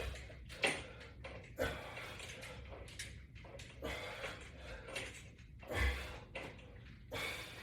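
Short, soft rustles and scrapes at an irregular pace of about one a second, from exercising with resistance bands hooked to a wall-mounted latch bar.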